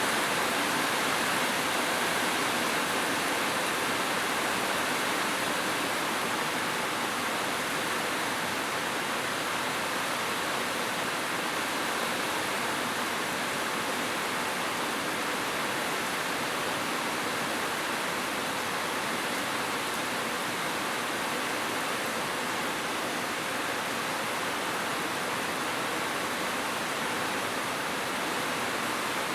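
Heavy rain falling on a roof, a steady even hiss with no thunder.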